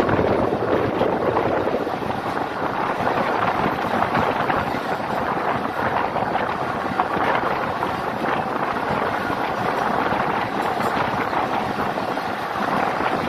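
Steady running noise of a passenger train coach moving at speed along the track, heard from an open window or door, with wind rushing over the microphone.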